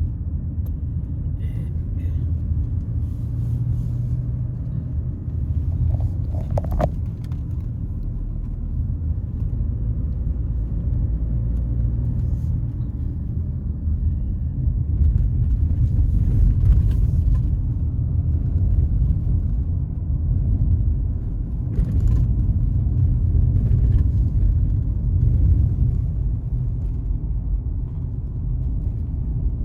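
Steady low rumble of a car driving, heard from inside the cabin, with a few faint knocks.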